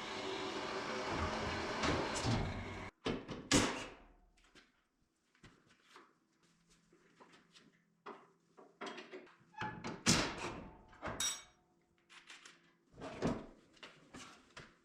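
A steady rushing noise that cuts off suddenly about three seconds in, followed by scattered knocks and clunks of hand work with quiet gaps between them.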